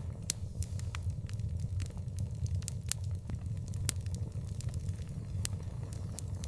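Fire burning with irregular sharp crackles and pops, several a second, over a steady low rumble.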